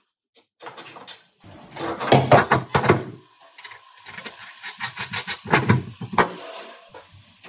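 Irregular knocks, clunks and scrapes of car body parts and tools being handled during collision repair work, with no steady rhythm.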